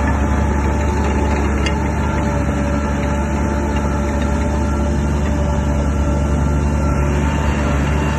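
Heavy diesel engine of a crawler bulldozer running steadily, a deep drone with a few steady higher tones over it.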